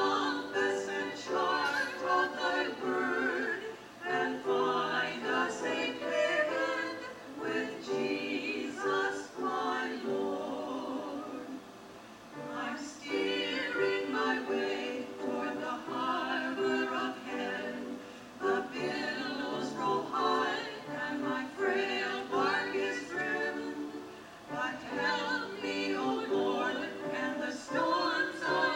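A choir singing with musical accompaniment, in continuous phrases with brief dips between them.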